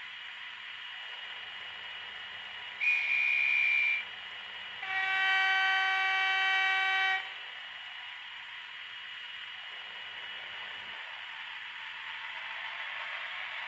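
Diesel locomotive horn over a steady hiss. A short high whistle note sounds for about a second, then after a brief gap a lower, fuller horn note holds for about two and a half seconds.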